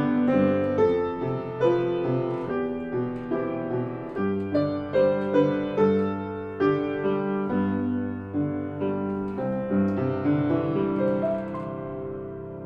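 Background music: a gentle piano melody with sustained chords, notes struck and fading one after another.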